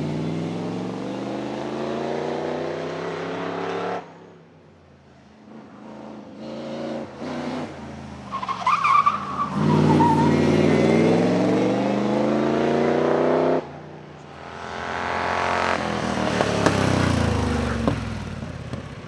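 Vintage racing car engines revving hard under acceleration, in several cuts, with the pitch climbing through each run. A brief tyre squeal comes a little before the middle. Near the end another car comes up loud and passes, its note dropping away.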